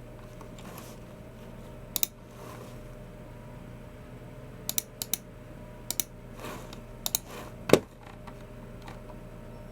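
A handful of sharp, separate clicks from a Logitech MX Keys Mini keyboard and a Logitech G304 mouse, several coming in quick pairs rather than a running typing rhythm. The loudest, near the end, has a dull knock under it. Soft swishes sound between the clicks.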